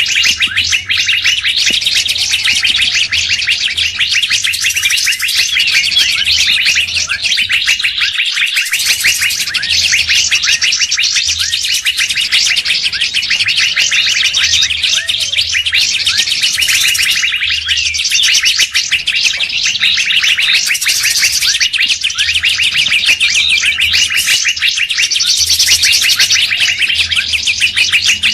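Dense, rapid chirping and twittering of songbirds, a continuous bird-lure call track, with repeated brighter bursts of higher notes every few seconds.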